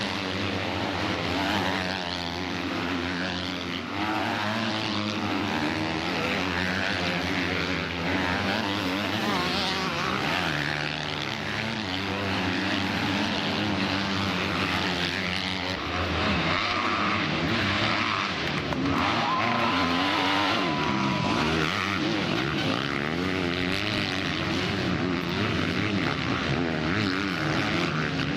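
Several motocross bikes' engines running at race pace, their pitch rising and falling as they rev and change gear, overlapping one another throughout.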